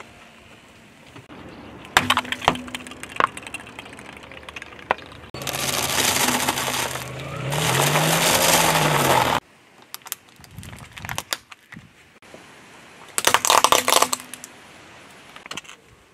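A car tyre rolling over objects and crushing them: scattered snaps and crackles, then about four seconds of loud, dense crunching as a block of dry instant noodles breaks under the tyre. A shorter burst of crackling follows near the end.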